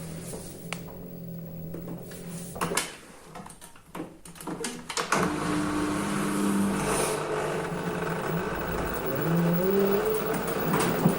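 Washing machine running: a steady motor hum with a few clicks, then a short quieter lull. About five seconds in it starts up louder with a whirring wash-drum noise, and its motor whine rises in pitch near the end.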